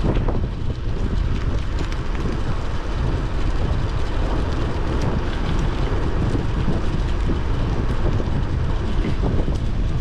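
Wind buffeting the microphone of a bike-mounted camera during a folding bike's downhill ride, a steady loud low rumble, with tyre and road noise and small clicks and rattles from the bike throughout.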